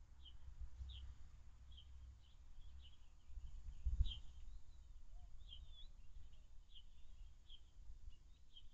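Faint, short chirps of a small bird repeating about once or twice a second over a low rumble, with one dull thump about four seconds in.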